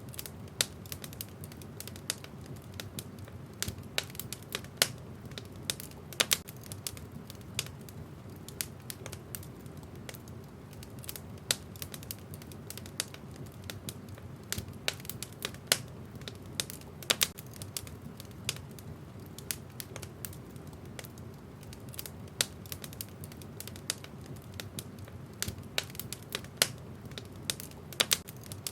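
Wood fire burning in a fireplace, crackling: irregular sharp pops and snaps from the burning logs over a steady low rumble of the flames.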